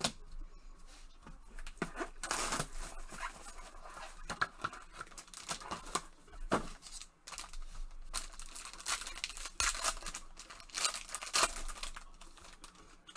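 Trading-card packaging being torn open and crinkled by hand, in a string of sharp rasps and crackles with a few clicks, loudest about two seconds in and again near the end.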